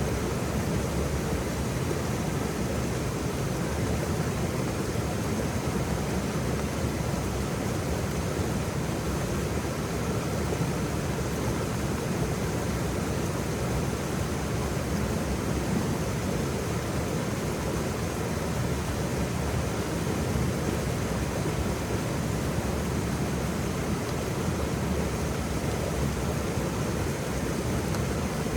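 Waterfall: a steady, even rush of falling water, heaviest in the low range, with no breaks or changes.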